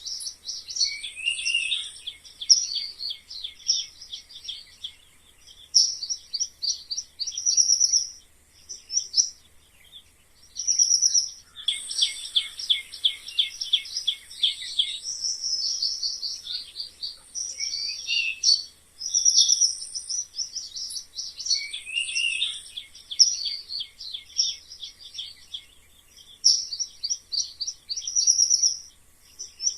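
Mice squeaking: high-pitched chirps and rapid trills in short repeated phrases of a second or two, with brief pauses between them.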